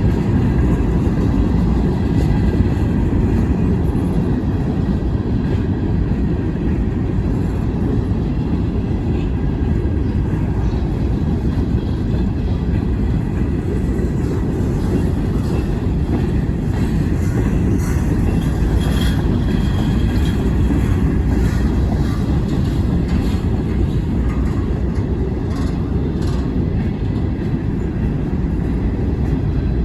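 Wheeling and Lake Erie freight train rolling past, a steady low rumble of the cars on the rails. Faint clicks and a brief high squeal come through about two-thirds of the way in.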